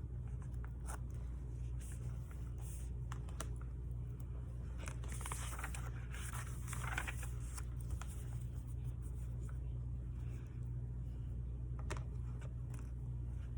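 A steady low hum, with faint handling of planner paper and washi tape over it: a few light clicks and a scraping, tearing sound about five to seven seconds in.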